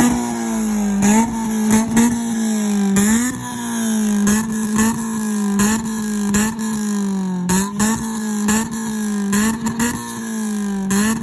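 A car engine held at high revs and blipped again and again: the pitch jumps up and sags back about once a second, with many short sharp cracks running through it.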